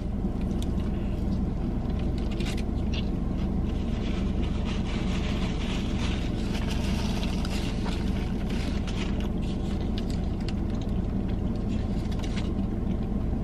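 Biting into and chewing a foil-wrapped double cheeseburger, with small clicks and crinkly noise, over a steady low hum from the car.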